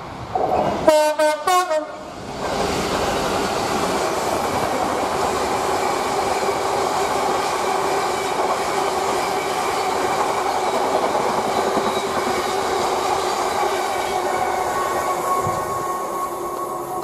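Freight train locomotive sounding its horn in several short blasts about a second in, then the train passing close by: a long run of wagons rumbling and clattering over the rails with a steady hum, easing off near the end.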